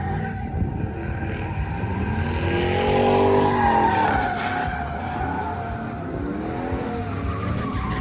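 A pickup truck doing a burnout: tires squealing steadily while the engine revs up and back down, loudest about three seconds in.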